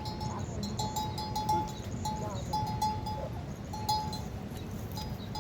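Bells on livestock clanking irregularly, with a steady mid-pitched tone that keeps coming and going over a noisy background.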